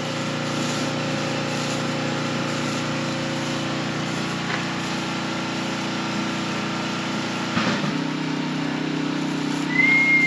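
A small engine or motor running steadily; its tone shifts lower about eight seconds in. A short high whistle-like tone rises and falls near the end.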